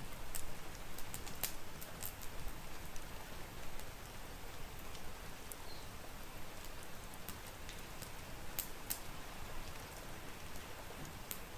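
Steady rain with the irregular snaps and pops of a crackling wood fire, a few sharp crackles in the first two seconds, a pair a little past the middle and one more near the end.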